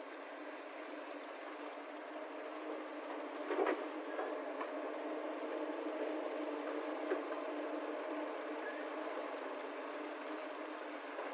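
Heavy diesel machinery at an earthmoving site, the excavators and tipper lorry, running steadily, with a sharp knock about three and a half seconds in and a smaller one about seven seconds in.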